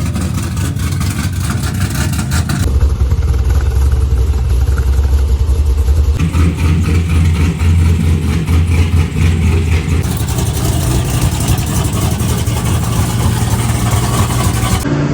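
A car engine running, heard in several short clips joined by abrupt cuts.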